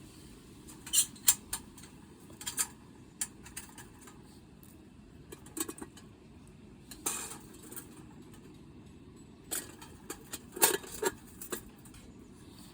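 Metal parts of a quick-assembly camping fire pit clinking and clattering as it is handled and put together. The sharp clanks come in small groups, loudest about a second in and again near the end.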